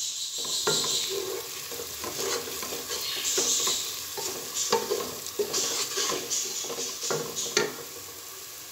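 Onion, ginger and garlic masala with turmeric, red chilli and salt sizzling in hot oil in a nonstick pot. A wooden spatula stirs it, scraping and knocking against the pot several times.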